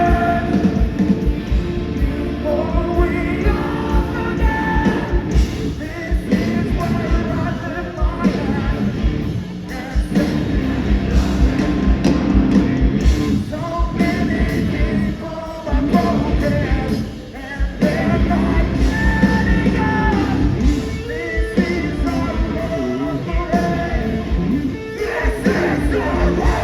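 Live rock band playing loudly, with drums, guitar and a singer.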